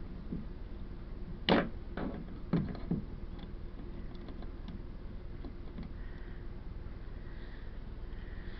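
Needle-nose pliers being handled at a washing machine's drain pump opening: a few sharp knocks and clicks in the first three seconds, then faint scattered ticks over a steady low hum.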